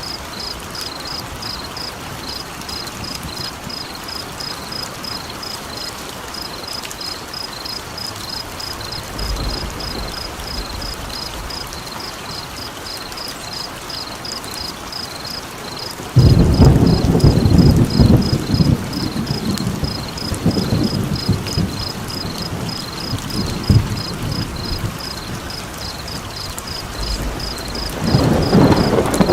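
Thunder rumbling over steady rain: a loud low roll of thunder breaks in suddenly about halfway and rolls on for several seconds, and another begins to swell near the end. Throughout, a high chirping pulses evenly at about four a second.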